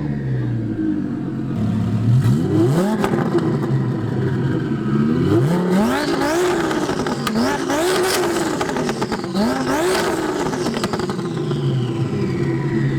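Twin-turbo Lamborghini engine revved hard about six times in quick succession, each rev climbing and dropping back, between stretches of idle. It is very loud.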